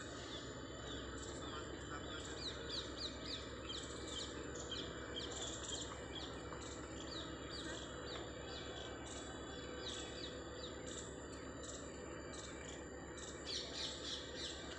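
Small birds chirping: quick, repeated short high chirps, several a second, starting about two seconds in and getting louder near the end, over a steady thin high-pitched tone.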